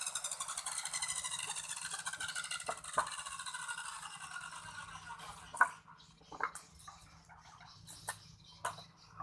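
An electric power tool's motor winding down after switch-off, its whine falling steadily in pitch and fading out over about five seconds. Several sharp knocks follow, spaced irregularly.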